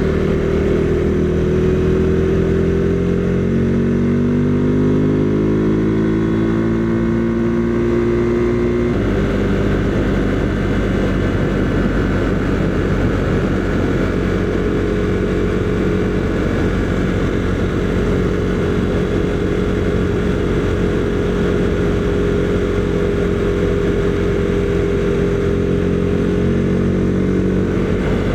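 Husqvarna Svartpilen 401's single-cylinder engine running on the road, its pitch falling steadily for about nine seconds as the bike slows, then changing suddenly and holding a nearly steady note, with wind rush throughout.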